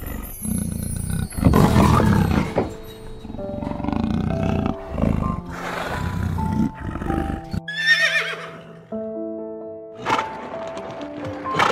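Big cat growling and roaring in repeated rough bursts over background music, then a horse whinnies once, a wavering cry of about a second, about two-thirds of the way through, followed by a short snort-like burst.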